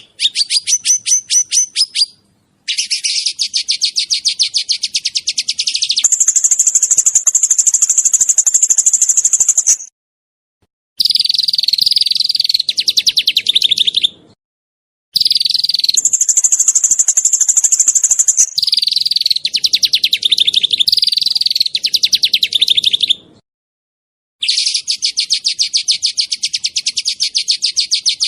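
A small songbird's rapid 'nembak' (shooting) song: long, dense runs of fast, sharp, high-pitched notes lasting several seconds each, some stretches higher and some lower in pitch. The runs are separated by brief silent breaks.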